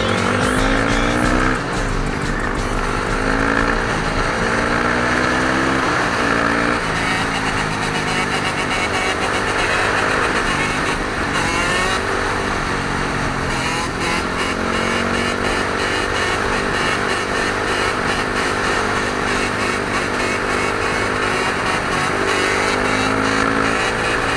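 Dirt bike engines revving and pulling up through the gears, the pitch climbing and dropping back again and again.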